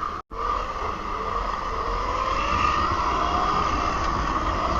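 Razor MX350 48-volt electric dirt bike being ridden: a steady high whine from its motor and chain drive, with a faint tone rising as it speeds up, over a low rumble.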